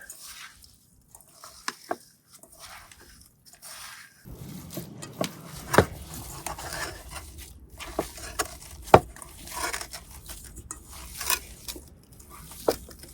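Hands squishing and kneading a raw ground-meat meatball mixture in a bowl. It is quiet at first and busier from about four seconds in, with scattered sharp clicks, the loudest about six and nine seconds in.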